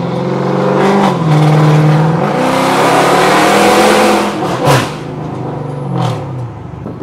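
Chrysler 300's engine accelerating hard, heard from inside the cabin: the revs climb, drop at a gear change about two seconds in, then run loud under full throttle before easing off near the end. A short sharp crack comes about four and a half seconds in.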